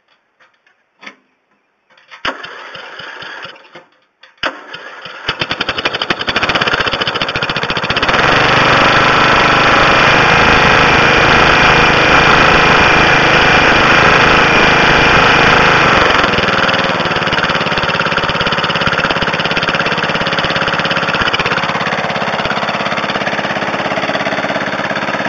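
Briggs & Stratton 12 HP I/C single-cylinder mower engine being cranked, failing to catch on the first try and starting on the second, about four and a half seconds in. It then runs steadily, speeding up about eight seconds in and settling to a slightly lower speed about sixteen seconds in.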